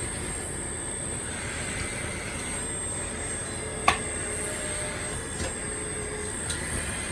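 Hydraulic RC CAT 336D2 excavator model running, its pump and motor giving a steady whir with a constant high whine, and one sharp click about four seconds in.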